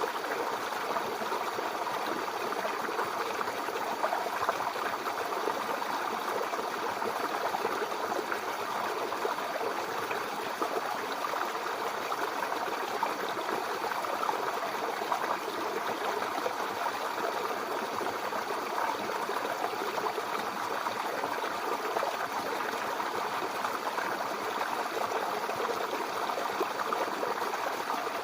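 Babbling brook: shallow water flowing steadily over stones, a continuous even burble.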